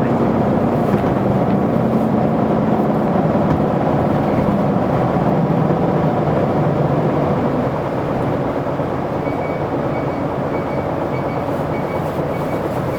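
Isuzu Erga city bus heard from inside while under way: a steady six-cylinder diesel engine and road noise. An engine tone fades out about five seconds in, and the overall level drops slightly just past halfway. A faint, regularly repeated high beep runs through the second half.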